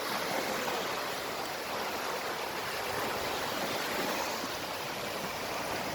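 Sea surf washing on a beach, a steady hiss with no distinct breaks.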